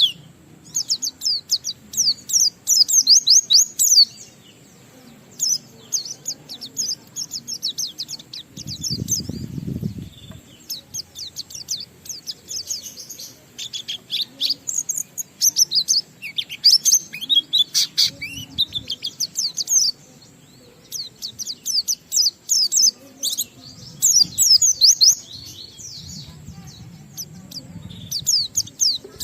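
Pleci (white-eye) singing in runs of rapid, high twittering chirps and trills a few seconds long, with short pauses between. A brief low rumble comes about nine seconds in.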